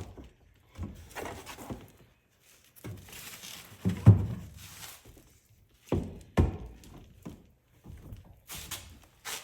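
Irregular knocks and thuds of heavy hardware being handled and set in place. The loudest comes about four seconds in, two sharp knocks follow about six seconds in, and another comes near the end.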